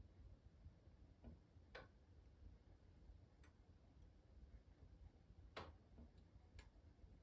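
Faint crackling of a wood fire in a fireplace: a handful of sharp, irregular pops over a low, soft rumble.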